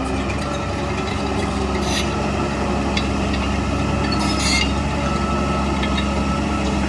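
Heavy diesel earthmoving machinery running steadily, with a couple of short metallic clanks about two seconds in and again near four and a half seconds.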